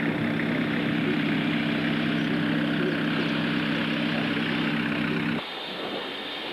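A steady engine drone with a low hum, cutting off suddenly about five seconds in. A quieter train running rumble follows.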